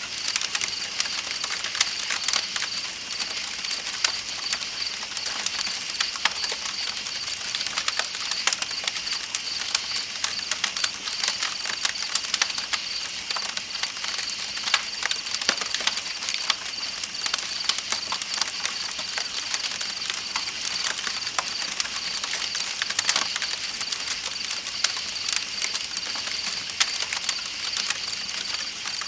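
Campfire crackling with irregular sharp pops, over a steady rapid chirping of night insects and the even rush of a flowing river.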